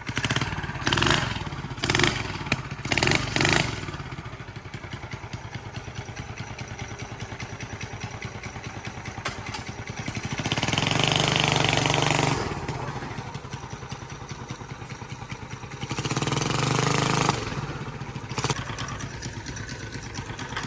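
Minibike's small engine revved in several short blips, then running steadily with two longer pulls of the throttle, about ten and sixteen seconds in.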